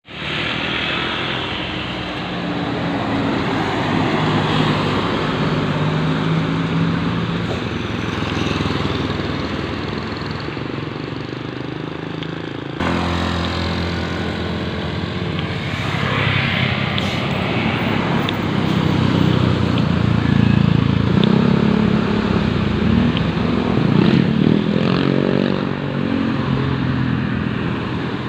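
Tour bus engines running as buses drive past, the sound changing abruptly about 13 seconds in; near the end an engine's pitch rises and falls as it revs.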